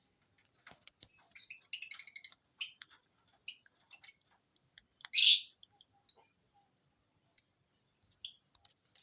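Lovebird chirping: a series of short, high chirps with gaps between them, and one louder, longer harsh call about five seconds in.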